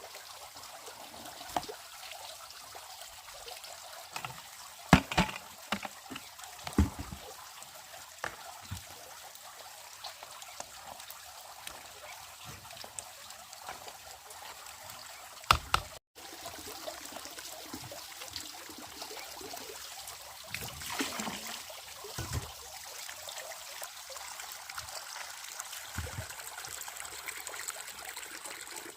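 Water trickling steadily, with a few sharp knocks scattered through it.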